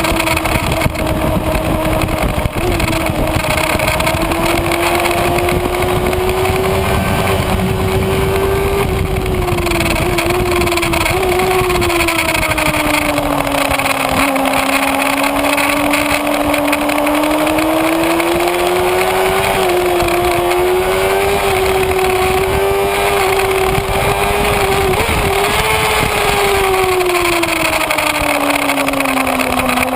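Kawasaki Ninja ZX-6R inline-four engine running hard at high revs, its pitch rising and falling gently with the throttle and dipping twice. Heavy wind rush on the bike-mounted microphone underneath.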